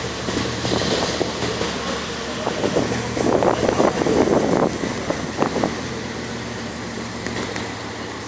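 Bugatti Veyron's W16 engine idling with a steady low hum. People's voices rise over it between about two and six seconds in.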